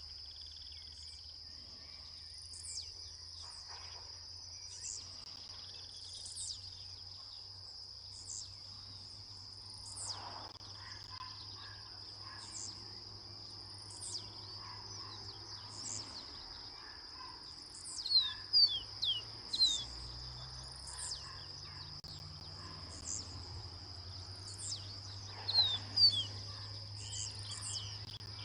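Chestnut seedeater singing: two short, loud bursts of quick descending notes, one about two-thirds of the way in and one near the end. Under it runs a steady high insect drone, with short high chirps every second or two.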